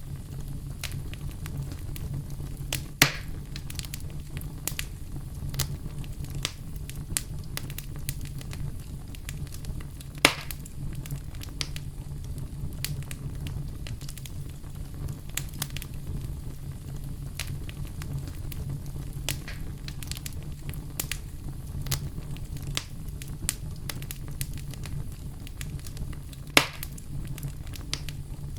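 Campfire crackling: a constant stream of small pops and ticks, with three much louder snaps spread through it, over a steady low rumble.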